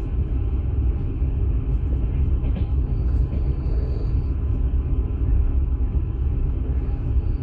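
Steady low rumble of a moving passenger train, heard from inside an open-plan sleeper carriage.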